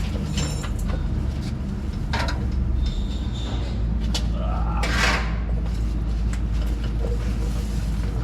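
A steady low machine drone, with scattered metallic clinks and knocks of hand tools and a brief clatter about five seconds in.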